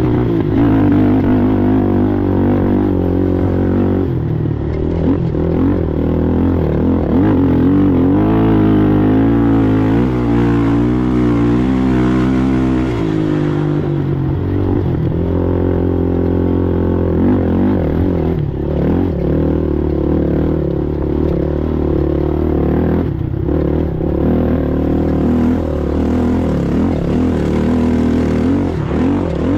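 ATV engine running hard during an off-road race, its pitch rising and falling with the throttle and dropping to a lower, steadier note about 13 seconds in.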